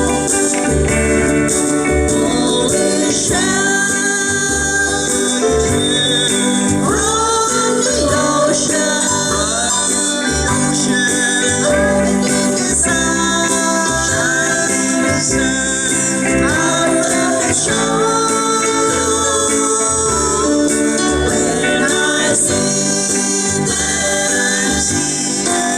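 Live busking band playing a Hawaiian-style song: sung vocals in harmony over guitar and a steady bass beat.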